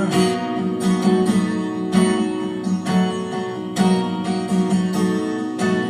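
Instrumental music: acoustic guitar strumming held chords, with a strong stroke about once a second and no singing.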